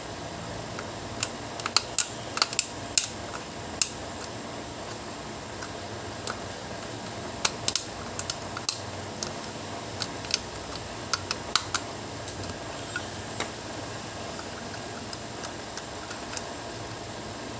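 Irregular sharp clicks and taps of small tools and parts being handled, in clusters in the first few seconds and again around the middle, then thinning out, over a steady hiss.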